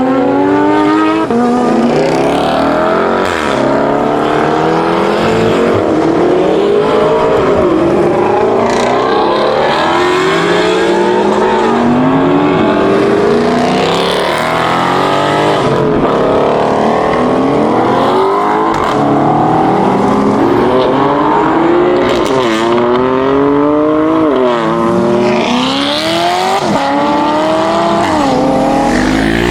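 Performance car engines accelerating hard, one car after another. Each climbs steeply in pitch, drops back at an upshift and climbs again, and the runs often overlap.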